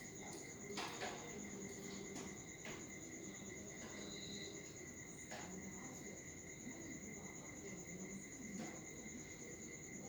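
A faint, steady high-pitched trill, cricket-like, with a few short clicks and taps scattered through it. There is no clear budgie chirping.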